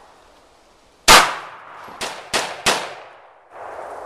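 A gunshot with a long echoing tail about a second in, followed by three quicker, sharper cracks about a third of a second apart.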